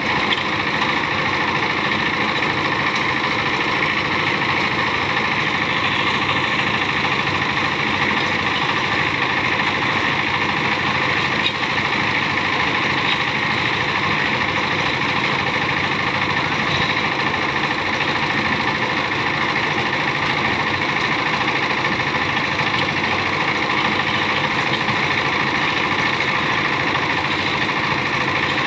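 An engine-driven machine running steadily at an even, unchanging level.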